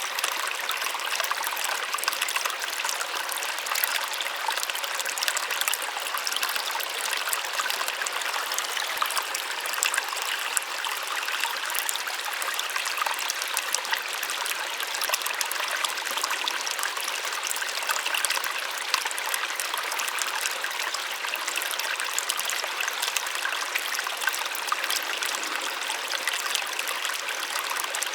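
Small waterfall splashing steadily, an even rush of falling water with many small splashes.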